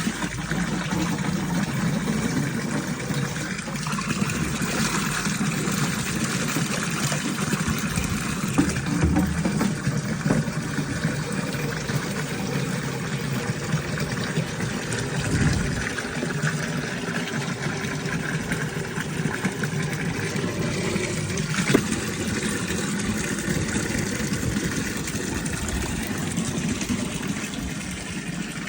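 Natural spring water running steadily, with a few brief knocks.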